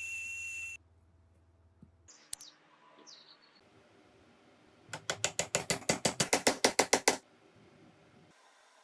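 A fast run of sharp mechanical ratcheting clicks, about nine a second for two seconds, after a few faint clicks. A high steady whistle-like tone cuts off suddenly near the start.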